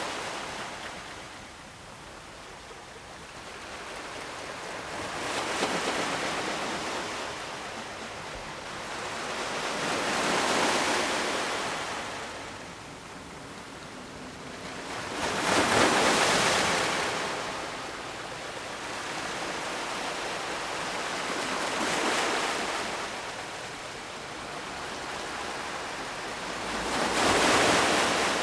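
Ocean waves breaking on the shore in a steady series, about one every five to six seconds, each swelling into a rushing wash and then ebbing; the breakers near the middle and the end are the loudest.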